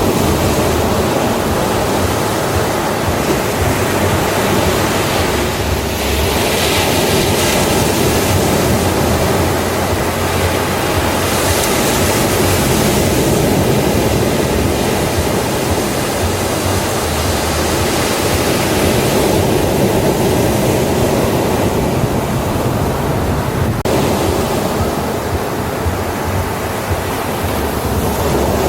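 Ocean waves washing onto a beach: continuous surf, its hiss swelling twice.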